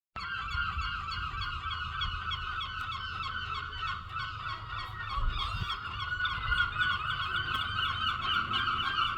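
Many seagulls calling at once, their calls overlapping into a steady, unbroken chorus, with a low rumble underneath.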